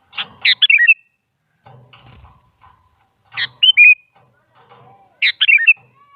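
Sooty-headed bulbul (kutilang) singing: three short phrases of quick whistled notes, near the start, about halfway and near the end.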